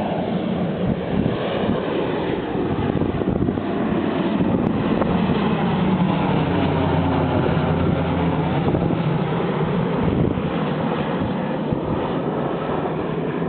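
Cessna 206 turboprop engine and propeller running at high power during the takeoff run, a steady loud drone whose pitch bends partway through as the aircraft moves past.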